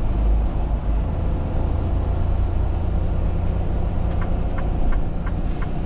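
Truck's engine running with a steady low rumble inside the cab. About four seconds in, the hazard-light flasher starts ticking, about three clicks a second.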